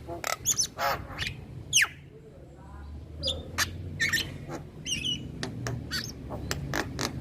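Male Javan myna singing a rapid, varied stream of short whistles, squawks and chattering notes, some sweeping up or down in pitch, with sharp clicks between them.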